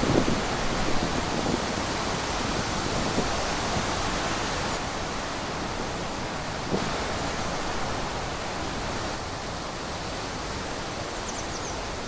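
Wind blowing through forest trees: a steady rushing noise that is gustier at the start and eases off slightly over the following seconds.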